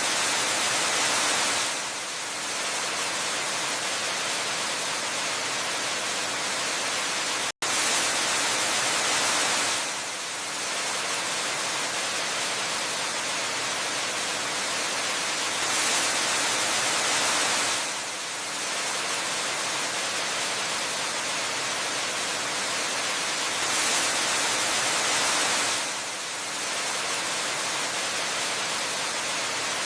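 Waterfall rushing as a steady, hissing wash of water noise that swells slightly about every eight seconds. It drops out for an instant about seven and a half seconds in.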